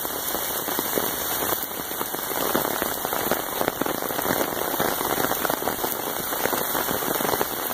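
Heavy rain falling steadily on pooled water, wet paving and plants: a dense patter of countless individual drops.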